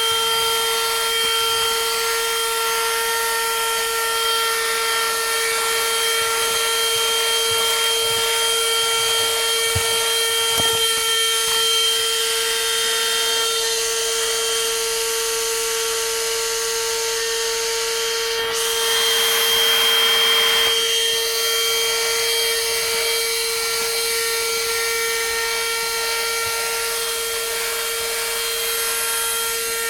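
Niecarva SV07 12-volt handheld car vacuum cleaner running steadily: a high motor whine over a rushing hiss of air. It turns briefly louder and rougher about nineteen seconds in.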